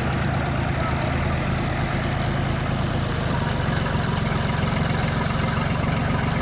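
Diesel tractor engine running steadily at an even pitch.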